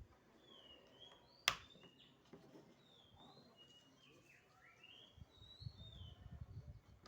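Faint birds chirping, a string of short rising and falling calls, with one sharp click about a second and a half in.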